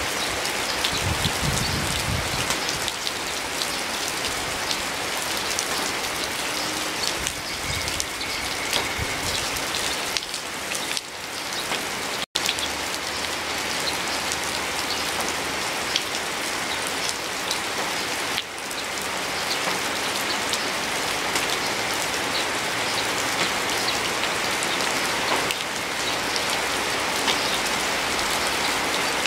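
Steady rain, with many separate drops hitting close by. The sound cuts out for an instant about twelve seconds in.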